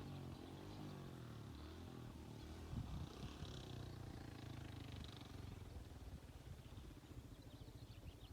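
Dirt bike engine idling faintly, its pitch wavering slightly.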